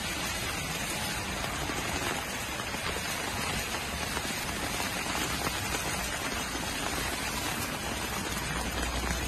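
Heavy rain pouring down and splashing steadily on a waterlogged pavement and street.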